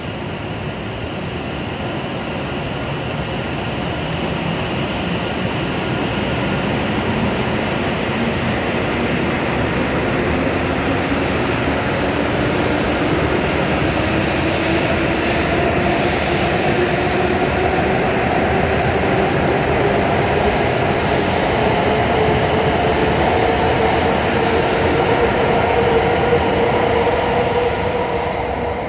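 W7 series Shinkansen train pulling away from the platform, its traction motors whining in a tone that climbs slowly and steadily in pitch as it accelerates, over the rumble of the passing cars. The sound grows louder as the train gathers speed.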